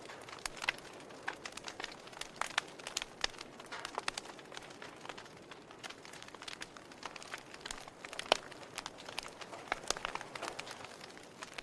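Wood fire crackling in a fireplace: irregular snaps and pops over a soft hiss, with one sharper pop a little after the middle.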